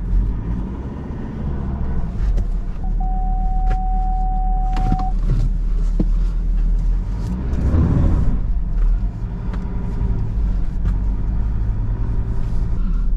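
Four-wheel-drive vehicle's engine running, heard from inside the cabin as a steady low rumble, with a single steady electronic beep lasting about two seconds a few seconds in and a brief swell in the engine noise about eight seconds in.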